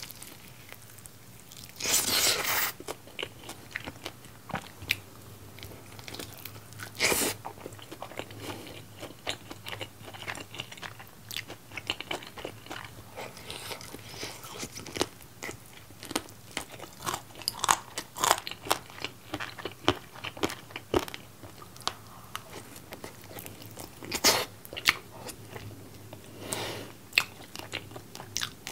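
Close-up eating sounds: a person biting into and chewing sauce-coated fried chicken, the crust crunching, with many small chewing clicks and a few louder crunchy bites spread through.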